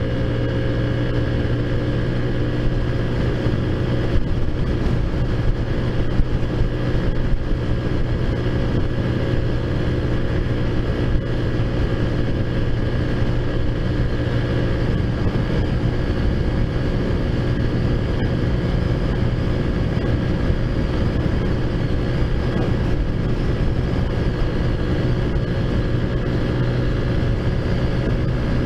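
Taotao Zummer scooter's big-bore 50cc four-stroke engine running at a steady cruising speed while riding, with wind rumble on the microphone.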